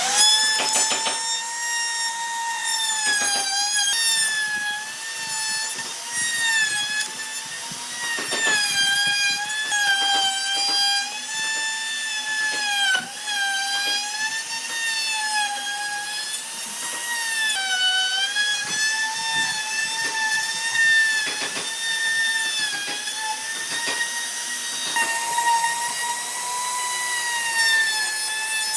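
Electric power tool cutting wood: a steady high motor whine whose pitch sags briefly every few seconds as the cut loads it, then recovers.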